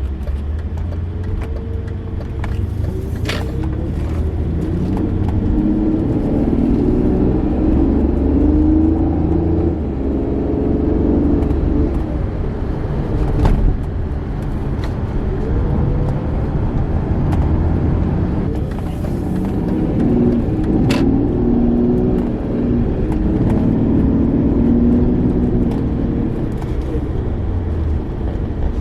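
BMW 750iL E38's V12 engine running, its pitch rising and falling several times as the car drives. A few sharp clicks are heard, the loudest about halfway through.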